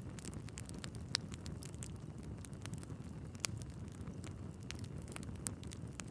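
Wood fire burning in a fireplace: a steady low rumble of flames with constant small crackles and three sharper pops of burning logs, about a second in, midway and near the end.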